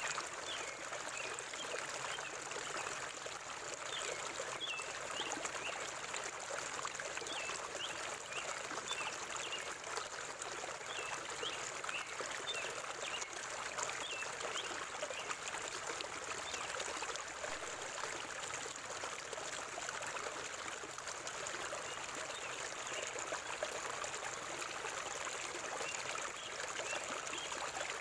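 River water flowing and trickling steadily over stones, with quick, high bird chirps repeating over roughly the first half.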